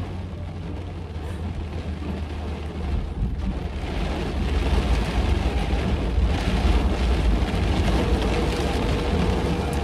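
Heavy rain drumming on a car's roof and windows, heard from inside the cabin over a steady low rumble, growing louder about four seconds in. Near the end a faint steady ringing tone from a phone placing a call sets in.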